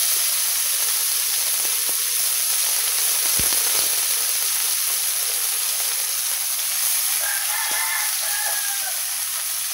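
Oyster mushrooms sizzling in a little hot oil in a frying pan, a steady hiss with one sharp knock about three seconds in. A rooster crows once in the background from about seven seconds in.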